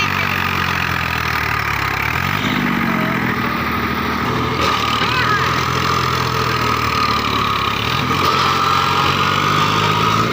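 An engine running steadily with a low hum; its pitch lifts briefly about two to three seconds in, then settles.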